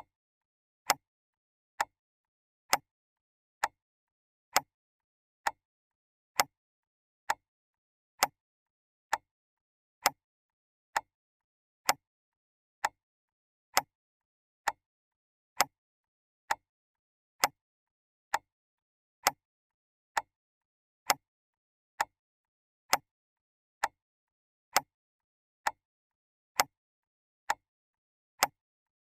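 Clock ticking steadily: single sharp ticks a little faster than one a second, with nothing between them.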